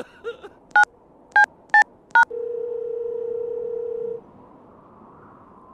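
Telephone keypad dialing tones: four short two-tone beeps in quick succession, then a steady tone held for about two seconds.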